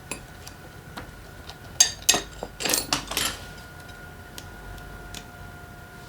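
Metal engine parts and hand tools clinking and clattering as a small motorcycle engine is taken apart: a few light clicks, then a quick burst of sharp metallic clinks about two seconds in, then scattered light ticks.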